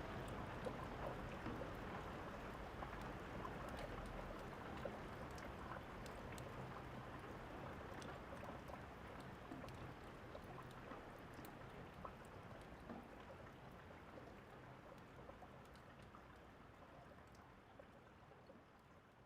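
Steady rain falling, with the occasional small pop of a crackling fire, the whole gradually fading out.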